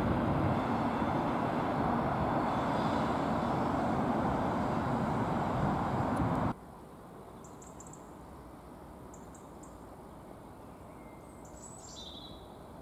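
Class 73 electro-diesel locomotives on a test train rumbling along the track as they pull away; the noise cuts off abruptly about six and a half seconds in. After that there is quiet background with a few bird chirps.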